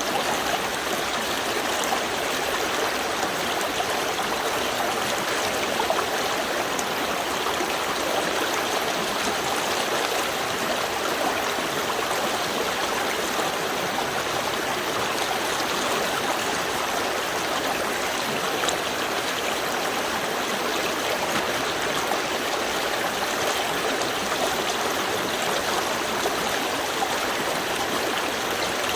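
Small river stream flowing steadily over stones, a continuous rush of water with fine splashing and trickling.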